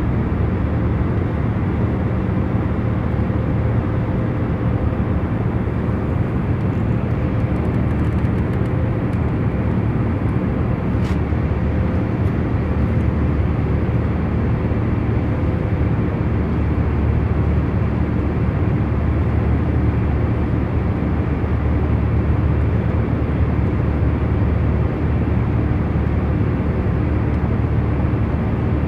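Airliner cabin noise in cruise flight: a steady low rumble of engines and airflow with a few faint constant hum tones underneath.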